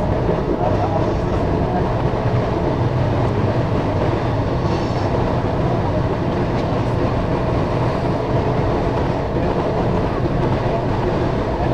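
An Amtrak passenger train rolling along the rails, heard from inside its last car: a steady running rumble with a few faint clicks.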